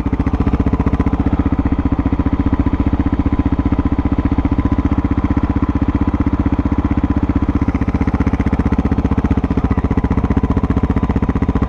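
Motorcycle engine idling steadily, with an even, regular beat of exhaust pulses.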